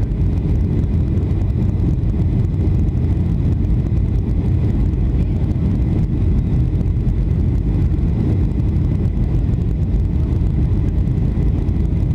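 Steady low rumble of a Boeing 757-300's engines and airflow, heard inside the passenger cabin in flight.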